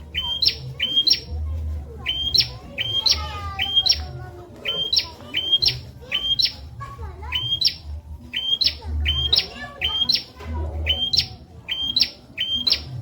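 Prenjak (a prinia) calling over and over: a loud, sharp two-part chirp, a short note then a quick upward flick, repeated in quick runs of two or three. An intermittent low rumble lies underneath.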